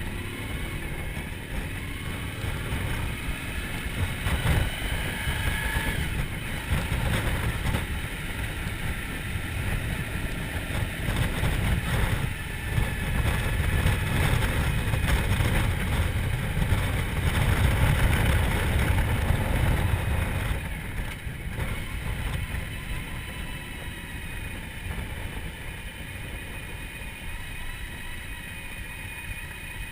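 Motorcycle engine running, with a steady rumble that swells through the middle and eases off near the end.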